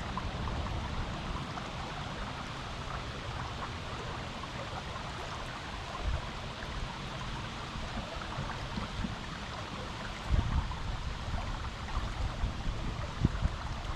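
River water flowing steadily over rocks in an even rushing hiss, with bursts of low rumble from about ten seconds in.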